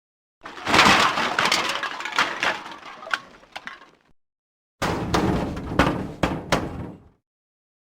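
Two separate meat foley effects of raw meat being handled and broken: a dense crackle of sharp snaps lasting about three and a half seconds that trails off, then after a short gap a second, shorter burst of snaps lasting about two seconds.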